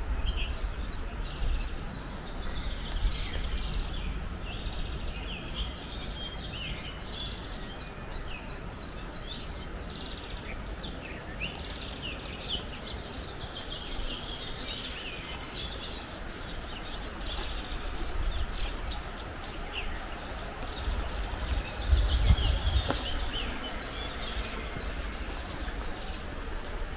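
Small songbirds chirping and twittering over a steady outdoor hiss, with a low rumble that swells about 22 seconds in.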